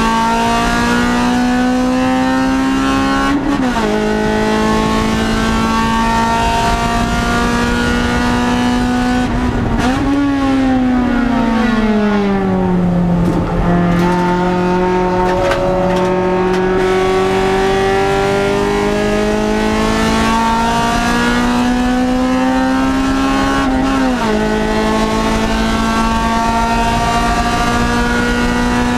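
Race-prepared car's engine, heard from inside its stripped cabin, pulling hard on track. The pitch climbs steadily and drops suddenly at each upshift, about three seconds in and again near the end. In the middle the pitch falls for a few seconds as the car slows for a corner, then climbs again.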